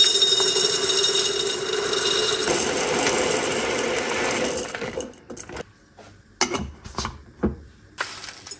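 A small electric kitchen appliance motor running steadily with a constant hum for about five seconds, then stopping. A few separate knocks and clicks follow.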